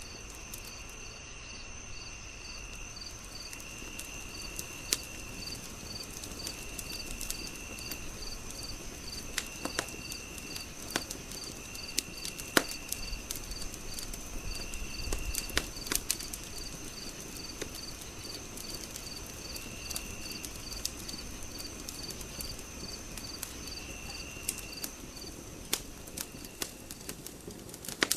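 Wood fire crackling with scattered sharp pops, over night insects: a steady high trill, regular chirps at a little over two a second, and a lower trill that comes and goes every few seconds.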